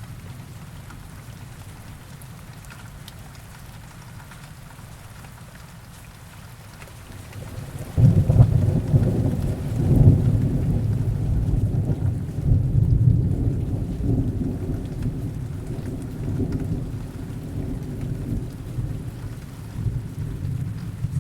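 Heavy rain falling steadily, with thunder breaking in suddenly about eight seconds in, loudest over its first couple of seconds, then rolling on as a long, gradually easing rumble.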